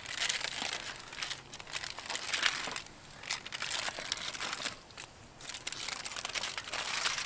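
Aluminium foil crinkling and rustling as it is peeled back and unwrapped, in irregular uneven bouts.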